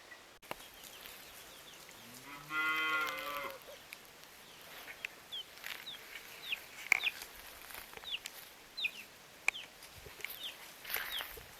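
A cow mooing once, about two seconds in. The call lasts about a second and a half, rising in pitch at the start and then holding.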